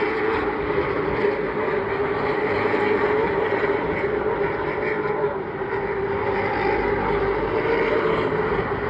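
A field of Pro Late Model stock cars racing around the short oval, their V8 engines running hard in a steady, loud drone that swells and dips slightly as the pack passes.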